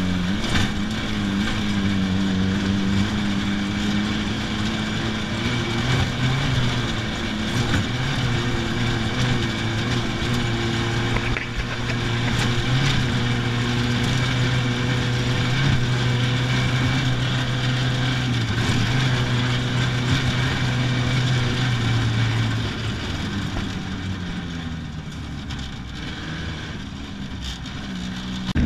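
Rally car engine heard from inside the cockpit, running hard at speed over a steady rush of tyre and wind noise. The revs shift in the first few seconds, hold steady through the middle, then drop off and quieten about three-quarters of the way through.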